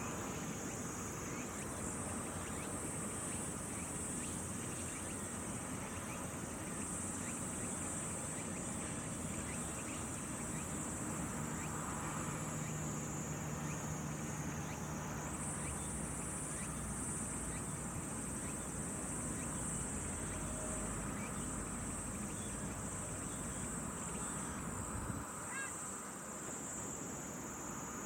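Continuous high-pitched insect chorus trilling steadily, stepping slightly up in pitch twice, over a low rumble of outdoor ambience.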